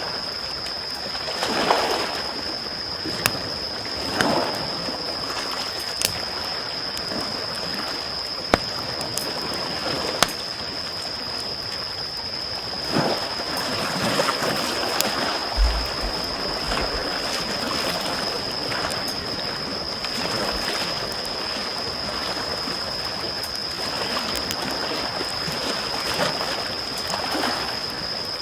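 Small waves washing in and out on the shore in gentle swells, with sharp crackles and pops from a wood campfire. A thin, steady high-pitched whine runs under it.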